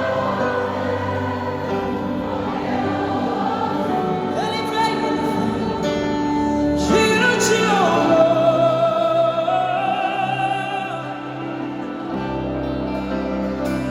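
Live gospel song: a woman singing held, sliding notes over band accompaniment, with a swooping vocal run about seven seconds in.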